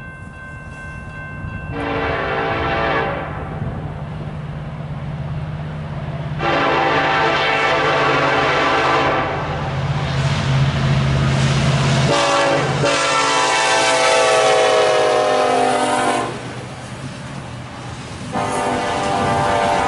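Norfolk Southern diesel locomotive sounding its air horn in four blasts, a short one followed by longer ones, over the low rumble of its engine, which drops away about twelve seconds in as it passes. During the third blast the horn's chord falls slightly in pitch.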